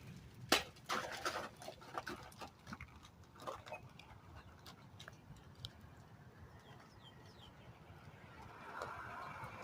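Dogs at their food: faint, scattered clicks and knocks in the first few seconds, then almost nothing, with a faint hiss setting in near the end.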